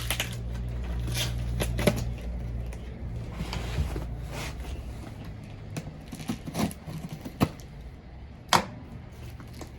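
Cardboard box being opened and unpacked by hand: irregular clicks, scrapes and crinkles of the flaps and packing, with a sharper knock about a second before the end.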